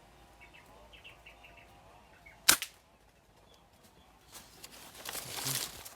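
A single sharp shot from a homemade PCP air rifle about two and a half seconds in, with birds chirping faintly before it. A soft rushing noise rises near the end.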